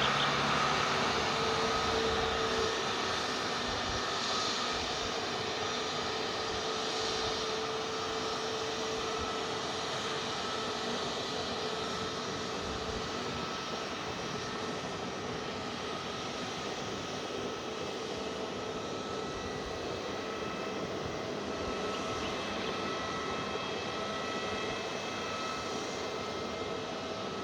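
Airliner engines running steadily: a continuous rushing hiss with faint steady whine tones, easing a little over the first several seconds and then holding level.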